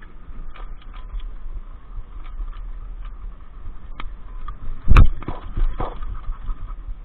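Steady low rumble and wind noise with scattered knocks, and one loud thump about five seconds in followed by a few smaller ones.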